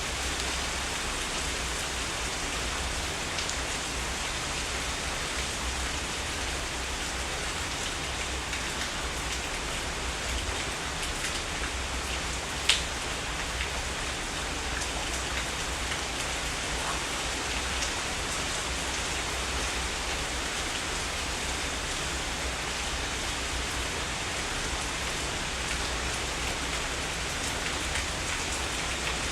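Steady heavy rain falling, with scattered drop ticks and one louder, sharp drop about halfway through.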